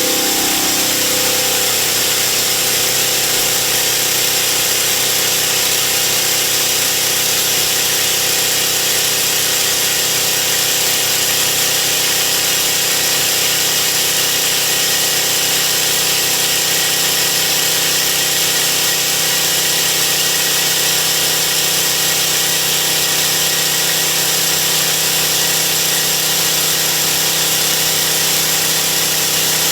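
OSG Phoenix PMD indexable cutter side milling S50C carbon steel on a CNC machine, spindle at about 1,900 rpm: a steady, loud cutting whine and hum. A tone falls briefly in the first second, then the sound holds even.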